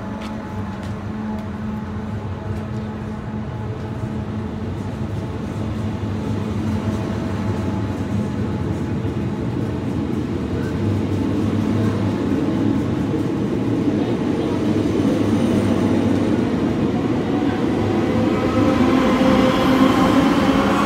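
A VB2N double-deck train pushed by a BB 27300 electric locomotive pulling out of the station, its running noise growing louder. Near the end the locomotive passes close by, and its traction motors whine upward in pitch as it accelerates.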